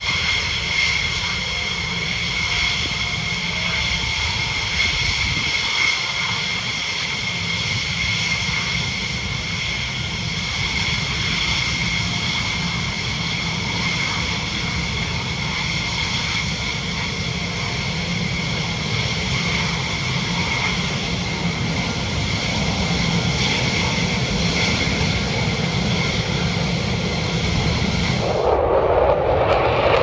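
Jet engines of Thunderbirds F-16 Fighting Falcons running with a steady high whine over a broad rumble; near the end the sound changes abruptly, the whine gives way to a rushing noise.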